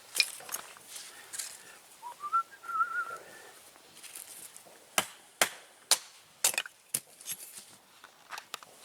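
A person whistles a short note that rises and then wavers for about a second and a half. A few seconds later comes a series of about seven sharp clicks and knocks.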